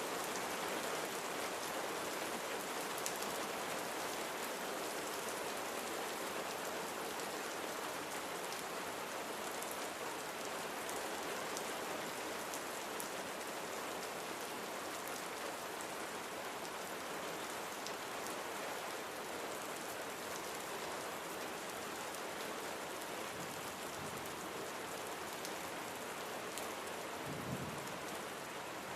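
Steady rain falling and pattering on surfaces, with scattered individual drops; a brief low thud near the end.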